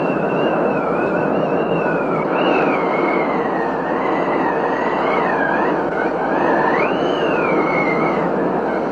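Steady rush of heavy rain during a thunderstorm. Over it runs a thin, high whistling tone that wavers up and down in pitch.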